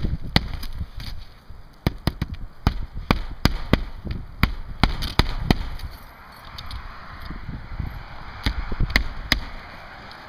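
Hammer driving roofing nails into asphalt shingles: quick runs of sharp knocks, with a lull of a couple of seconds past the middle before a few more strikes.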